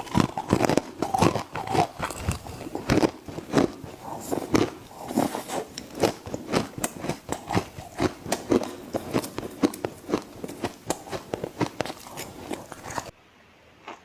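A person biting and chewing ice in the mouth: a fast run of sharp, crunchy cracks, several a second. The crunching stops abruptly near the end.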